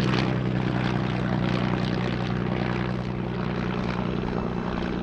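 Piston aero engine and propeller of a First World War era aircraft flying past, running steadily at a constant pitch and slowly fading.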